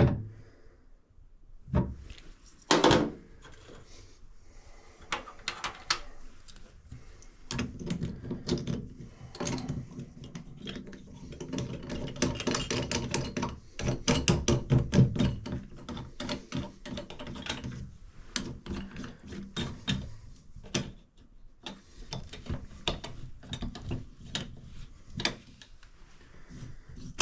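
Irregular clicks and knocks of hand tools and metal valve parts being handled while a shower valve is reassembled after a cartridge change, with a denser, louder run of clicking about halfway through.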